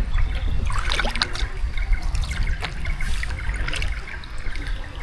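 Water trickling and splashing around a small paddled boat, with irregular little splashes over a steady low rumble.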